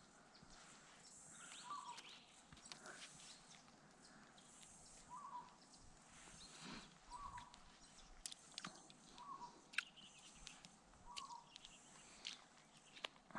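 Faint outdoor quiet in which a bird repeats one short call about every two seconds, with scattered light clicks and rustling as hands handle a mesh yabby net.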